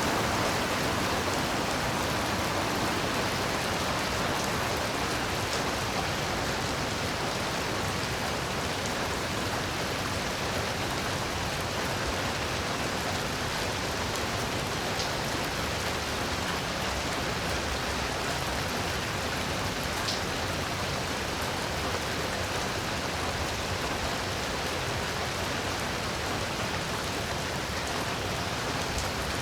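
Heavy rain falling steadily: a dense, even hiss of rain with a few faint separate drop ticks.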